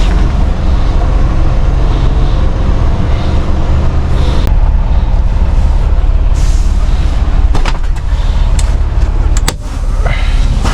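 Semi truck's diesel engine running loudly and steadily, with a couple of short hisses and a few sharp clicks about three-quarters of the way through.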